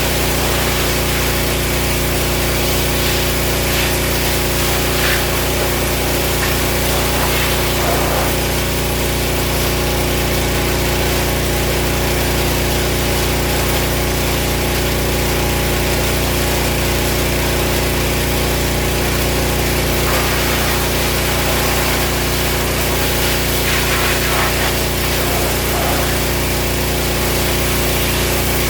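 Gas pressure washer running steadily, its small engine pulsing evenly under a constant hiss of spraying water.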